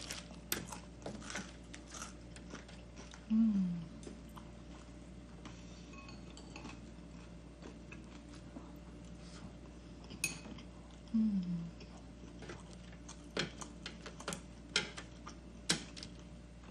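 Eating at the table: scattered small clicks and clinks of utensils against a plate, with faint chewing. Twice, a short low hum falls in pitch.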